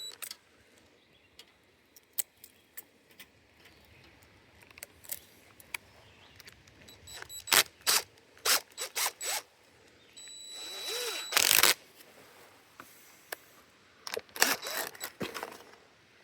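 Sharp clicks, snaps and rattles of hands working with tools and plastic fittings, coming in clusters, with a short hiss about ten seconds in.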